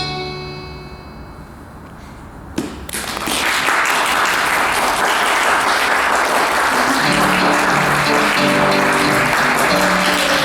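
A final piano chord rings out and fades away, then an audience breaks into applause about three seconds in and keeps clapping.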